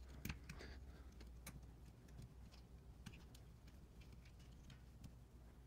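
Near silence, with a few faint, scattered light clicks as the motorcycle brake caliper and its rubber slide boot are handled and the boot is pushed out.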